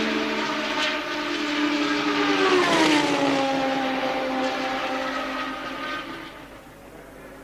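A 1983 Formula One car's engine at high revs passing by. Its note drops in pitch as it goes past, loudest about three seconds in, then fades away.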